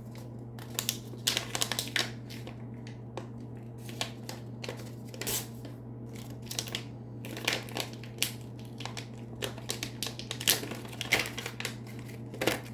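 Packaging being handled and opened by hand: irregular crinkling, rustling and sharp little clicks of plastic wrapping, over a steady low electrical hum.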